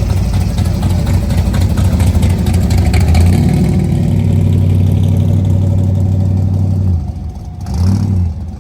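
Loud car engine running with a steady low note that falls away about seven seconds in, then a short rev near the end.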